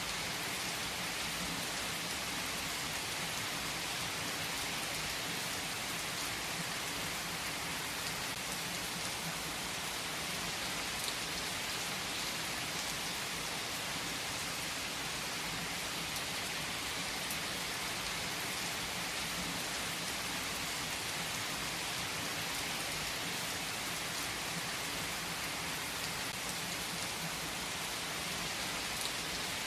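Steady rain falling in an even hiss, with scattered drops ticking.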